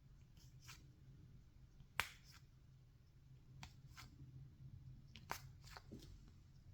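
Topps baseball cards being flipped through by hand: faint, scattered clicks and snaps of card stock, about ten in all. The sharpest comes about two seconds in.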